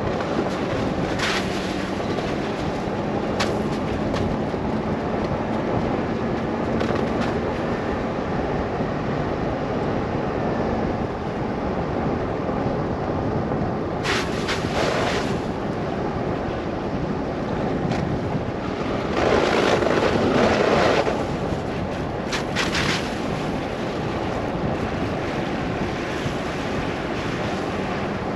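Car driving through a snow blizzard: a steady rush of wind and tyre noise, with a faint engine hum in the first part. There are a few brief knocks, and the noise swells louder for about two seconds about two-thirds of the way in.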